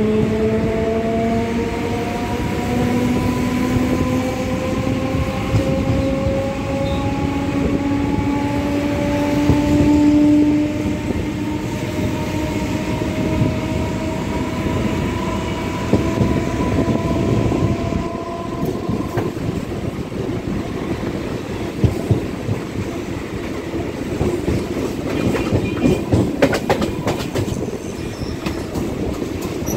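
Electric multiple unit (EMU) suburban train running, heard from its open doorway: a whine of several tones rising slowly in pitch as the train gathers speed, fading out about two-thirds through. Under it is a steady wheel rumble, with sharp clacks near the end as the wheels run over rail joints and points.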